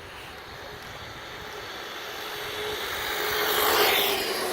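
Two 1/10-scale electric RC monster trucks, a Team Redcat MT10-E with a brushless motor and an Arrma Granite 4x4 with a brushed motor, running flat out in a drag race. The whine and tyre noise grow louder, are loudest about four seconds in, then ease off.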